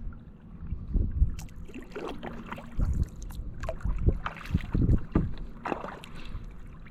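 Kayak paddle strokes, the blades dipping and splashing in calm water roughly once a second, over a low rumble of wind on the microphone.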